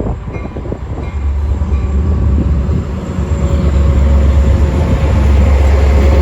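Metra MP36PH-3C diesel locomotive pulling into the station, its engine's low, steady rumble growing louder as it nears.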